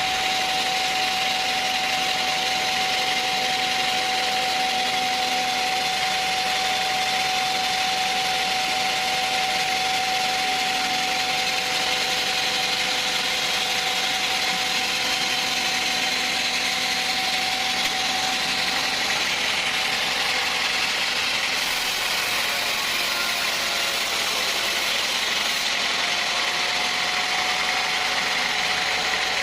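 Sawmill machinery running steadily: a continuous motor drone with a steady whine held at one pitch throughout.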